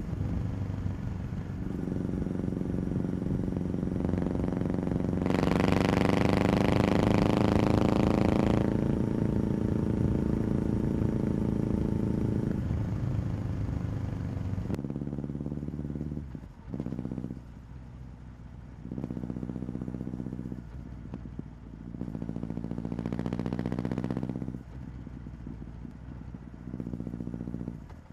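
Motorcycle engine running under way, its pitch climbing as it accelerates and then falling away as it slows. About halfway through the sound changes abruptly, then continues in shorter stretches broken by brief dips.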